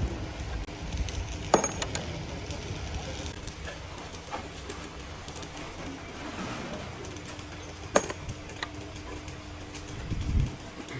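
A few sharp metallic clinks of tools or parts being handled. The loudest comes about a second and a half in and another about eight seconds in, over a low background rumble.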